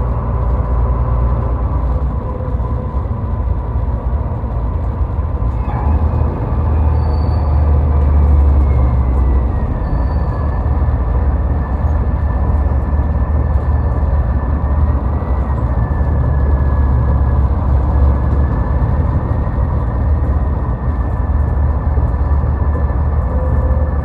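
Steady road noise of a vehicle driving on a highway: a loud, even low rumble of tyres and engine. From about six seconds in, a faint high whine slowly shifts in pitch.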